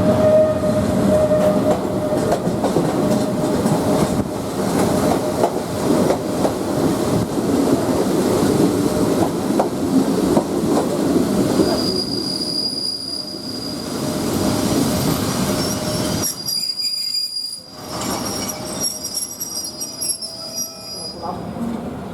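State Railway of Thailand passenger train running on the rails with a steady rumble. From about halfway in, high-pitched wheel squeal sets in, the sound of the wheels grinding on curved track.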